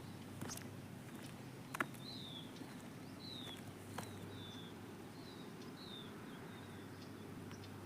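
Faint outdoor ambience with a series of short, high, falling chirps from a small bird, about six in the middle of the stretch, over a steady low hum, with a few sharp clicks or taps.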